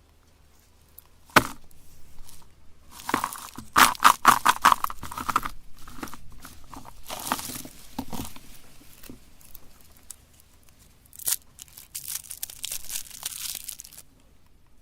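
Candy packaging being torn open and plastic wrappers crinkling, in irregular bursts, with a sharp snap about a second and a half in and another a little past the middle.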